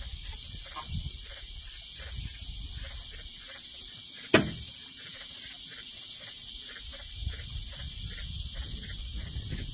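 Evening insect chorus: a steady high drone with a faint pulsing about three times a second, over a low rumble. One sharp click about four seconds in.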